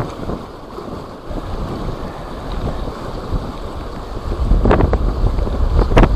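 Strong wind buffeting the microphone: a low, continuous rumble with a few sharper gusts near the end.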